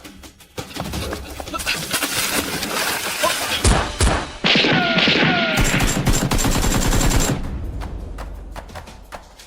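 Rapid gunfire: a dense run of shots with a few heavier blasts about four seconds in, dying away over the last two seconds.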